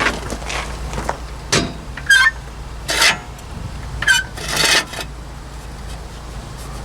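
Steel jack stand being handled and set in place under a truck: about five short metal scrapes and clunks, two with a brief squeak, over a steady low hum.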